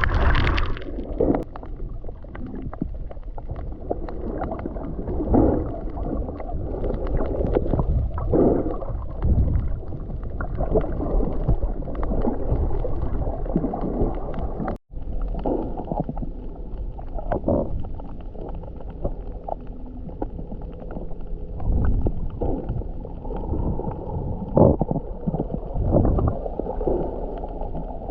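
Muffled water sounds through a submerged camera while snorkelling: a low, dull wash of water with irregular swishes and gurgles as the camera moves.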